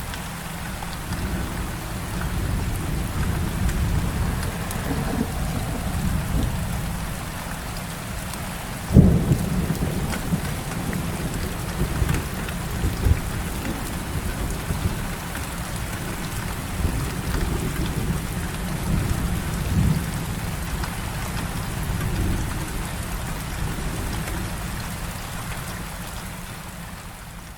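Heavy rain falling steadily with low rumbling thunder. About nine seconds in comes a sharp thunderclap that rolls into a long rumble, and the storm fades out near the end.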